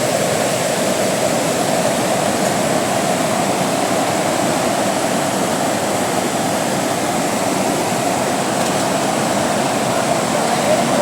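Floodwater rushing in a swollen river: a loud, steady, unbroken rush of water.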